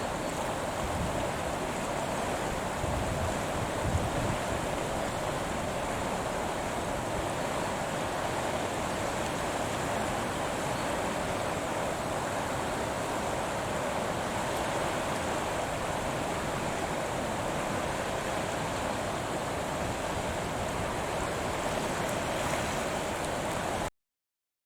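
Steady outdoor rushing noise, with no bird calls standing out, that cuts off abruptly about a second before the end.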